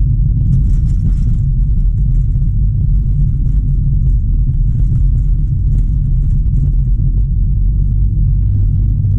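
Steady low road rumble inside a 2007 Honda Civic sedan's cabin as it drives along, tyres and engine blending into one even drone.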